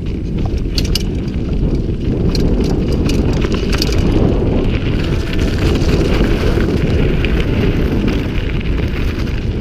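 Wind buffeting the microphone of a camera on a moving bicycle, a heavy low rumble, with a few sharp clicks in the first few seconds.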